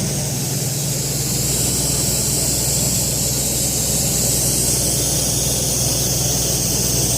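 Dustless-blasting rig's engine running steadily, with a steady high hiss over it.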